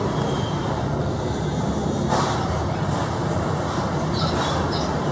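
Steady road traffic noise with a low rumble and a short hiss about two seconds in.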